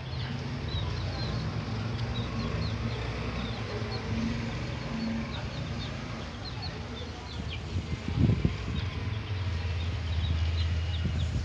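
Chickens out foraging: many short, high, falling chirps and peeps over a steady low hum, with a brief knock about eight seconds in.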